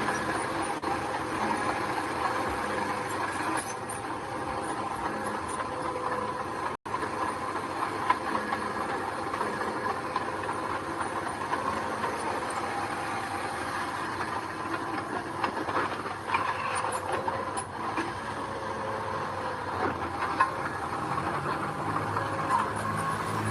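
Heavy earthmoving machinery running steadily with rattling and clanks, and a steady whine through it. The sound cuts out for an instant about seven seconds in.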